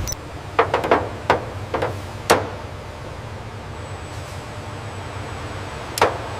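A quick run of sharp knocks and clicks, about seven in the first two and a half seconds, then one more several seconds later, over a faint steady hum.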